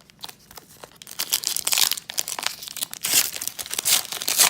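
A Topps Fire baseball card pack wrapper being torn open and crinkled in the hands. It is a dense plastic crackle that starts faintly and gets loud about a second in, in several surges.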